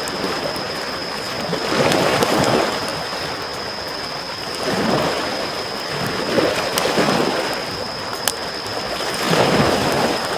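Small sea waves lapping on the shore, swelling and washing in four times, with the crackle and sharp pops of a wood campfire.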